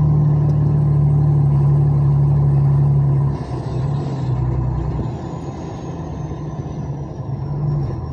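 Vehicle engine running with a steady low drone that drops away about three seconds in, leaving a quieter, rougher rumble.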